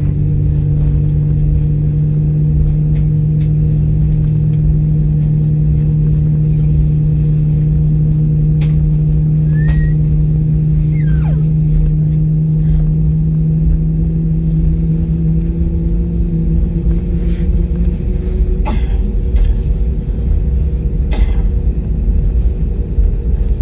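Cabin noise inside a jet airliner before takeoff: a steady, loud drone and rumble from the engines and aircraft systems. Its pitch shifts about two-thirds of the way through, with a few faint clicks.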